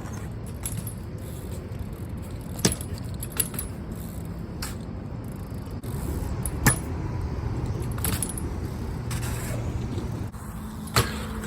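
BMX bike riding on concrete: a steady low rumble of tyres rolling, broken by a handful of sharp metallic clanks and knocks at irregular intervals.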